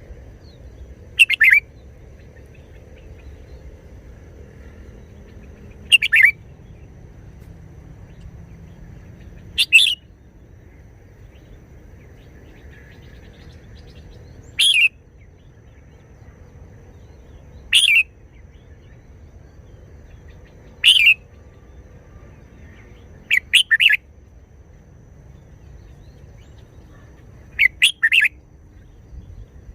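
Red-whiskered bulbul singing short, loud song phrases about every three to four seconds, some given as quick doubled or tripled notes.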